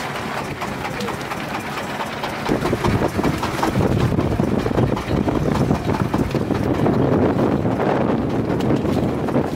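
Small boat's engine running steadily under way, with wind buffeting the microphone; it grows louder about two and a half seconds in.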